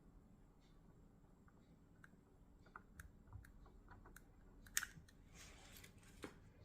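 Faint, scattered small clicks and a brief soft rustle from handling thin wires and plastic shrink-tube connectors, with a sharper click about five seconds in.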